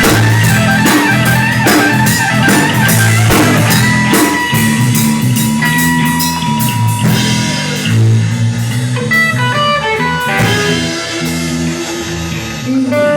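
A rock and roll band playing instrumentally, with guitar and drum kit. About halfway through the drumming thins out and the guitar plays a run of short single notes.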